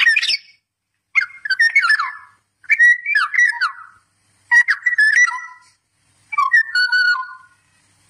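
A songbird singing: five short whistled phrases, each about a second long, gliding up and down in pitch, spaced roughly a second and a half apart.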